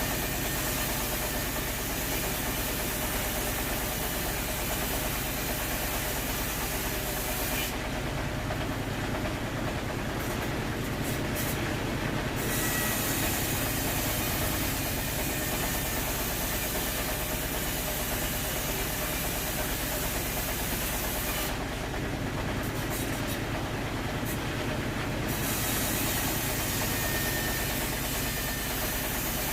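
Sawmill machinery running with a steady, continuous mechanical din and hiss. The high hiss drops away twice for a few seconds, about eight and twenty-two seconds in.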